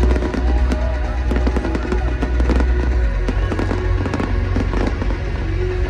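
Fireworks going off in rapid pops and crackles over loud electronic dance music with a heavy, steady bass.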